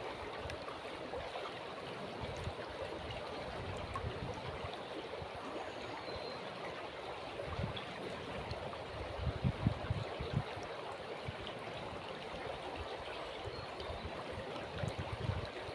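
River water flowing steadily with a continuous babbling rush. A few low thuds come through about two-thirds of the way in and again near the end.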